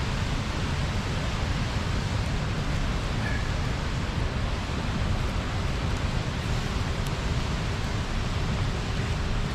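Steady rush of river water spilling over a small weir, an even full-bodied noise heaviest in the lows.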